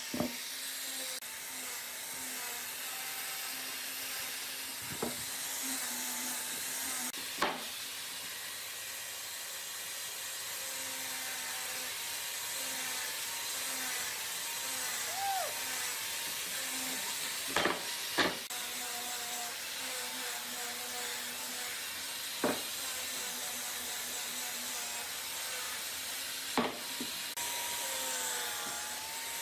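Steady scraping of a hand tool working wood, with a sharp knock every few seconds.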